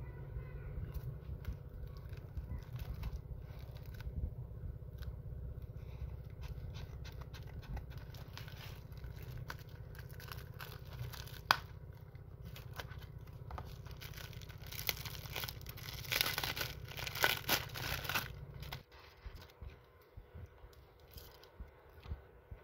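Crinkling, rustling handling noise with scattered clicks, loudest in a cluster of bursts a few seconds before the end, over a steady low rumble that cuts off abruptly near the end.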